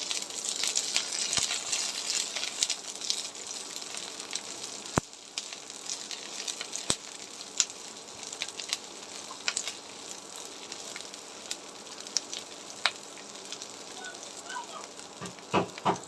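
Garlic cloves with dried and green chillies sizzling and crackling as they fry in vegetable oil in a wok, stirred with a spatula. The sizzle is stronger for the first few seconds, then settles to a softer hiss with scattered pops and a few sharp clicks.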